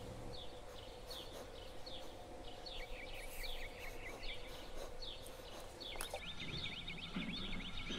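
Bird chirping: short repeated chirps, then a fast trill of quick notes from about six seconds in, over a steady low hum that stops with a click at that point.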